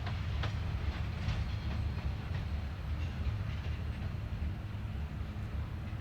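Freight cars of a passing CN train rolling by: a steady low rumble with a few faint wheel clicks.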